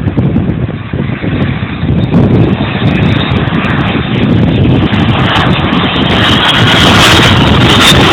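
Strong wind buffeting the microphone, with the jet engines of a departing Boeing 767-300ER growing louder from about six seconds in.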